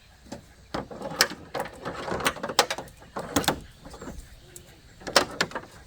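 Irregular clicks, knocks and short rattles of equipment being handled, as an air-conditioning gauge set and its hoses and fittings are set up. The louder knocks come in clusters about a second in, between two and a half and three and a half seconds, and near the end.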